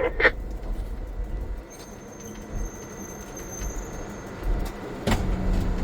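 Diesel-electric locomotive running with a low rumble that eases off about two seconds in as it is brought to a stop, with a sharp click near the end.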